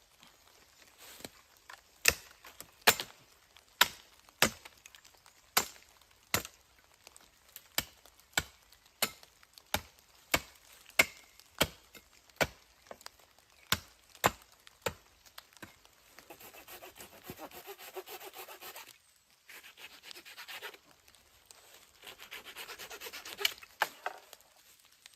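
Wood being chopped with a blade: a run of sharp knocks, one or two a second, followed by three stretches of steady rasping, typical of sawing wood.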